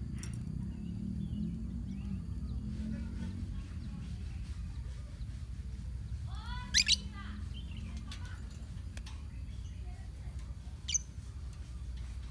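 Lovebirds in a colony calling: one loud, shrill screech about seven seconds in and a shorter high chirp near eleven seconds, over a steady low background rumble.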